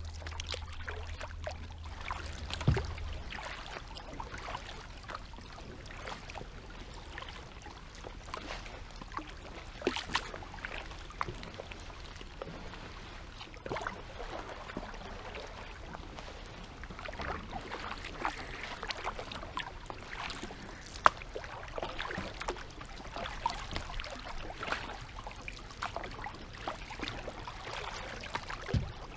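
Kayak paddles dipping and splashing in shallow creek water, with irregular splashes and scattered knocks.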